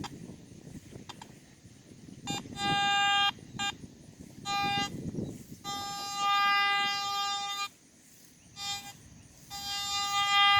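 Metal detector sounding off over a target: a few short beeps, then repeated longer held tones of up to about two seconds, some with a second, higher pitch, signalling a big target in the ground.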